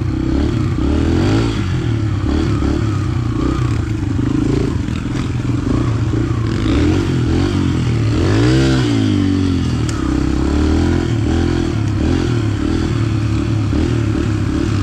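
A 125cc four-stroke dirt bike engine being ridden, its revs rising and falling with the throttle. About eight seconds in, one sharp rev climbs and drops back.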